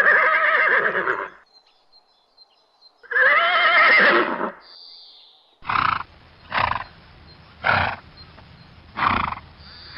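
A horse neighing twice, each a long whinny with a wavering pitch, followed from about halfway through by a series of short rough sounds roughly a second apart.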